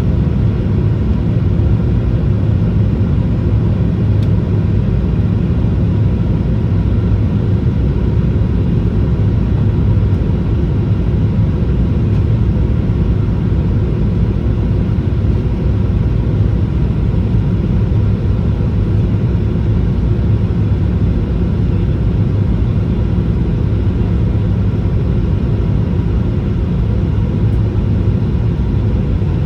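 Steady, even rumble of a Boeing 737-800 with its CFM56-7B turbofan engines running, with faint steady tones above the rumble.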